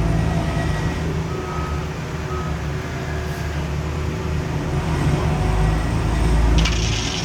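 Diesel engine of heavy paving machinery running steadily with a low drone, with a couple of faint short beeps early on. Near the end a hissing rattle starts up over it.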